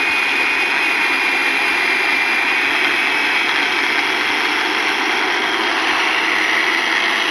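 Chainsaw engine running steadily with a constant high-pitched drone.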